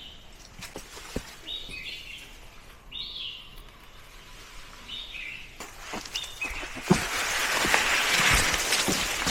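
A bird calling repeatedly, a short harsh call about every second and a half, over scattered light knocks. Near the end a louder, steady rustling hiss sets in.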